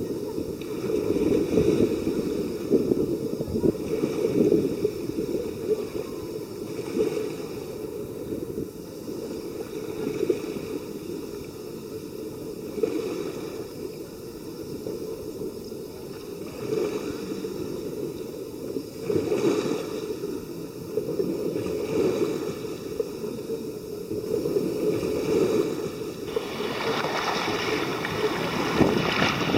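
Sea waves washing on a beach, heard through a low, surging rumble of wind on the microphone; near the end the noise turns brighter and stronger.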